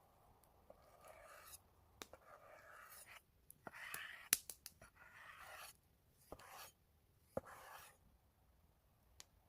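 Faint scraping and rubbing in short strokes, with a few sharp clicks, the loudest a little past four seconds in.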